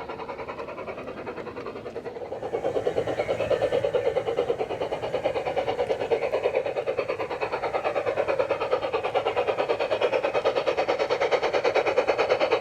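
Battery-powered garden-scale model train running along the track with a fast, even pulsing. It gets louder a little over two seconds in and stays loud.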